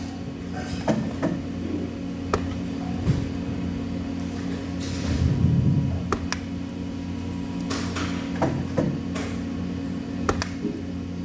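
Welding workshop sounds: a steady electrical or machine hum with scattered sharp metal clicks and knocks, and a short hiss about four to five seconds in.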